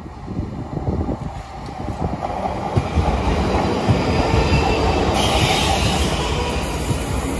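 Two coupled Class 334 electric multiple units running along the track. The rumble and wheel noise grow louder over the first three seconds, and a higher hiss joins in about five seconds in.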